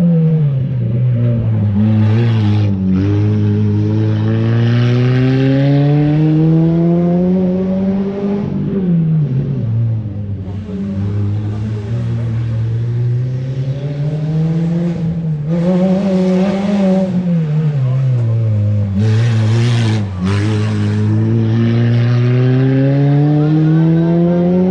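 Mini R50 race car's four-cylinder engine being driven hard. It revs steadily up over several seconds, then drops away quickly as the driver lifts or brakes, about four times over.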